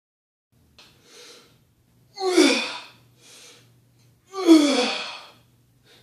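A person breathing hard with effort during an exercise: two quick inhales, each followed by a loud voiced exhale that falls in pitch, like a heavy sigh or grunt.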